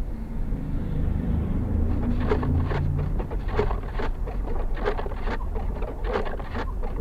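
Steady low road and engine rumble inside a car's cabin on a snowy highway. From about two seconds in, a short double sound repeats roughly every second and a half, four times.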